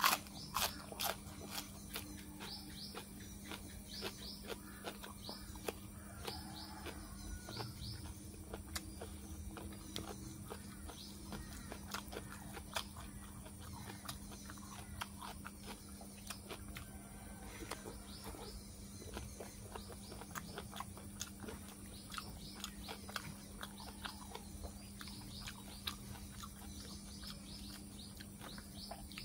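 A person chewing pig-ear and noodle salad close to a clip-on microphone: many small, irregular mouth clicks and smacks. Birds chirp faintly in the background.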